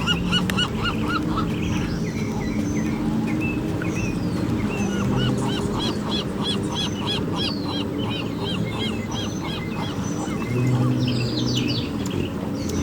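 Gulls calling, several birds at once, with a fast run of repeated, arching, laughing notes in the middle. Beneath them runs a steady rush of sea noise.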